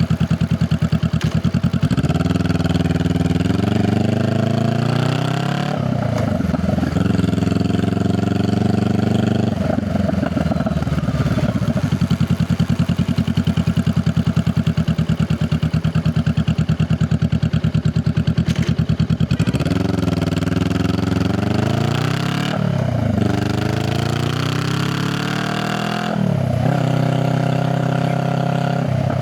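Honda Rebel 500's parallel-twin exhaust pulling through the gears: the engine note rises, drops back at each shift and rises again. In the middle it settles to a slow, even idle for several seconds, then accelerates through the gears again.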